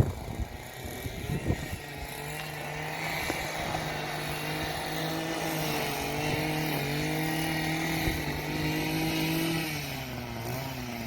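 A vehicle motor running at a steady, slightly wavering pitch, dipping and fading near the end, after a few sharp knocks in the first second and a half.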